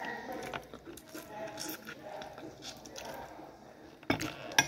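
Close-up biting and chewing of a piece of crispy battered food, with small wet clicks of the mouth. Two sharp knocks or clinks come near the end.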